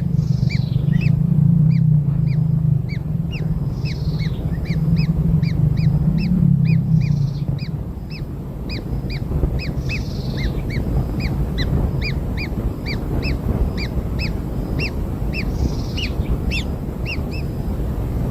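Kingfisher nestlings begging with a steady series of short, sharp chirps, about two a second. A low hum runs under the first half and fades out.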